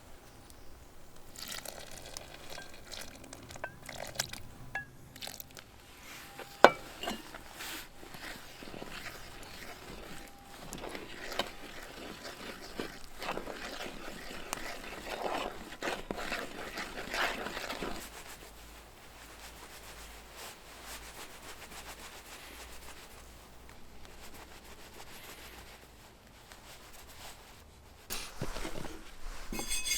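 Camp cookware and utensils being handled: light clinks, scrapes and knocks, with one sharp click about seven seconds in, busier for a stretch in the middle, then quieter.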